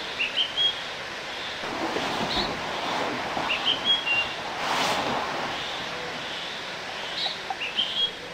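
A songbird repeating the same short phrase of quick high chirps three times, about every three and a half seconds. A rushing swell of noise rises and fades in the middle.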